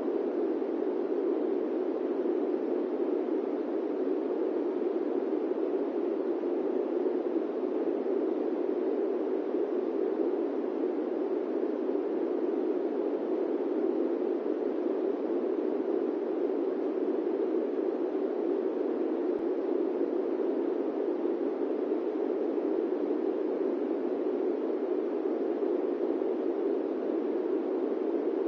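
Steady airplane cabin noise: an even, unbroken rushing hiss, fullest in the lower middle range, with no tones, bumps or changes.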